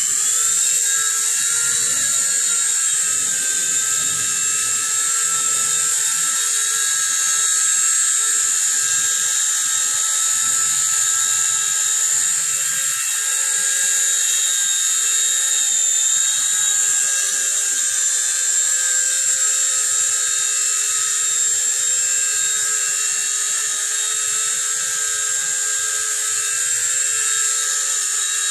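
Nine Eagles Bravo SX micro RC helicopter running: its small electric motors and rotors make a steady, high-pitched whine after spinning up.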